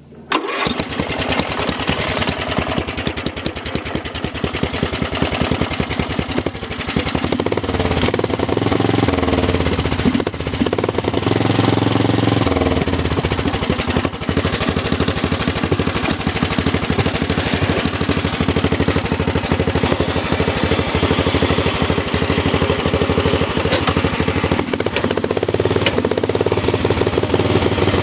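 Old Dynamark lawn tractor's small engine catching about half a second in, then running with a rapid, even popping from its custom exhaust. It gets louder and rises in pitch after several seconds as it is throttled up.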